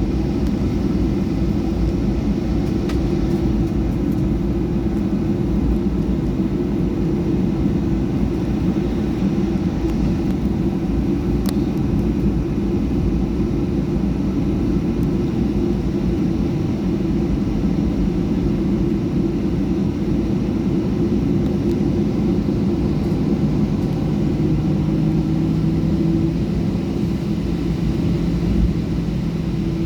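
Boeing 737-800 cabin noise at a window seat: a steady, deep roar of the jet engines and airframe. Near the end, a couple of faint steady tones rise slightly out of the roar.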